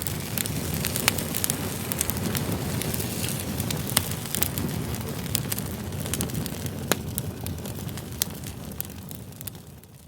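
Wood campfire burning: a steady low rush of flame with frequent sharp pops and crackles from the burning logs, fading out near the end.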